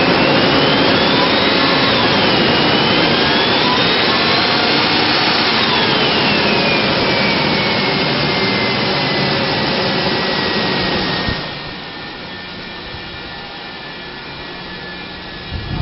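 A 2000 Ford Ranger's 4.0-liter V6 engine revved with a whine that rises and falls twice, easing off over several seconds. About eleven seconds in it drops back to a quieter, steady idle.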